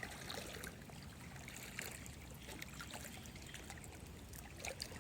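Faint, steady trickle of running water, with scattered small clicks.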